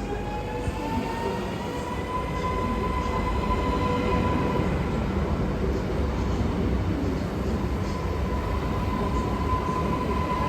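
Pesa Elf 2 (36WEd) electric multiple unit accelerating: its traction motors give a whine that rises in pitch over the first few seconds and then holds steady, over the rumble of the train.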